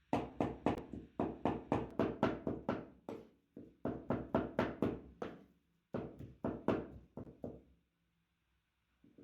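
Rapid, even blows on chicken meat, about four a second, in three runs with short breaks, as the meat is pounded for kebab.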